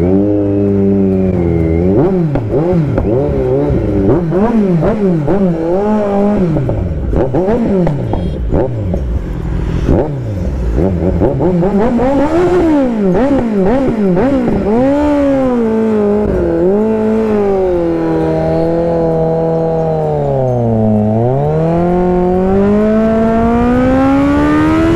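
Kawasaki Z900's inline-four engine under way, its revs rising and falling again and again as the rider accelerates and shifts. About two-thirds of the way through the revs sink low, then climb steadily in one long pull to the end.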